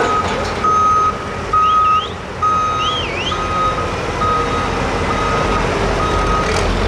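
A vehicle's reversing alarm beeping steadily, about once a second, over the low running of a diesel engine. A couple of short, gliding whistles come in about two seconds in.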